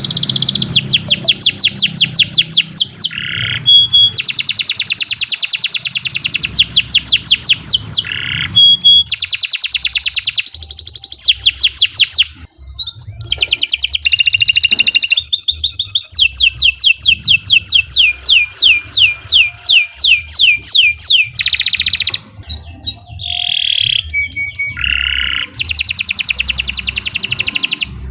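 Canary singing: long rolls of rapid, evenly repeated sweeping notes, broken every few seconds by short pauses and changes of phrase.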